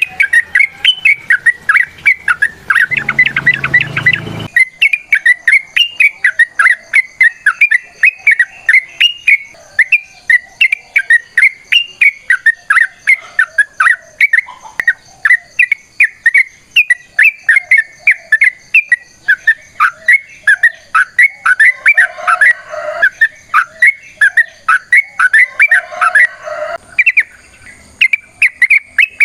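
Yellow-vented bulbul (trucukan) singing a long, fast run of short chirping notes, several a second without a break. A brief rumbling noise comes in about three seconds in.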